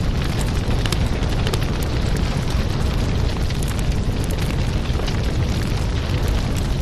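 Fireplace fire burning with a steady low rumble and frequent small crackles and pops.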